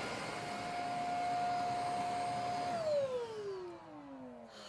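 Handheld mattress vacuum cleaner running with a steady whine over a hiss of airflow, then switched off about three seconds in, its motor whine falling in pitch as it spins down.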